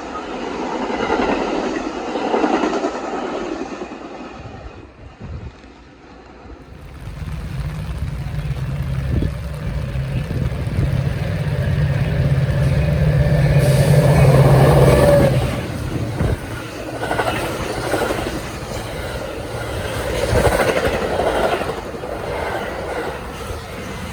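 Trains passing on the track. For the first few seconds a train rolls by, then it fades. About seven seconds in, a second train comes past with a steady low diesel locomotive drone, loudest around the middle, followed by the rumble and clatter of its cars.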